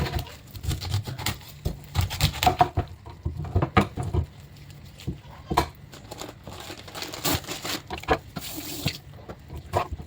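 Irregular taps, knocks and light clatter, like objects being handled and set down.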